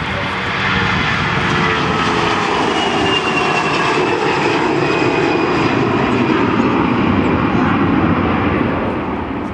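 Airliner's engines passing close by, a loud steady noise with whining tones that slowly fall in pitch; it eases slightly near the end.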